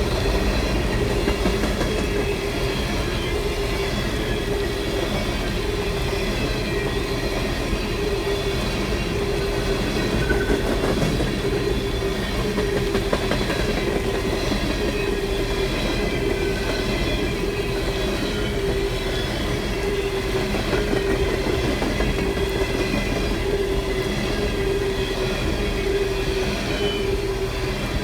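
Long freight train rolling steadily past, steel wheels on the rails with a continuous whining tone from the wheels.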